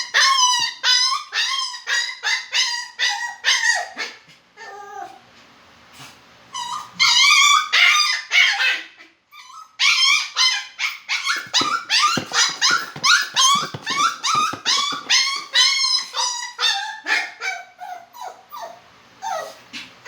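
Poodle whining and yelping in quick, high-pitched cries, several a second, with a few longer drawn-out cries about seven seconds in and a brief quieter lull just before them.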